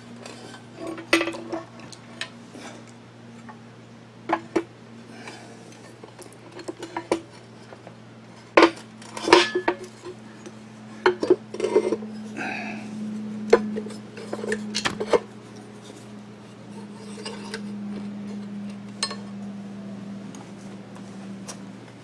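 Metal tools and small steel motor parts clinking and knocking as a drill grinder's electric motor is taken apart, in irregular sharp clinks over a steady low hum.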